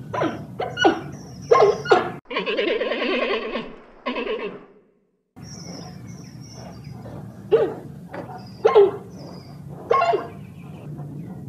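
Giant panda calling: several short bleat-like calls, then a longer rough call lasting a couple of seconds, a brief silence, and more short calls spaced about a second apart.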